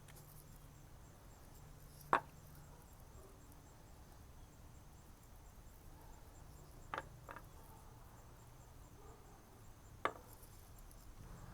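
A few light knocks and clicks of faucet repair parts being handled and set down on a table: one about two seconds in, a quick pair around seven seconds, and one more near the end, over a faint low hum.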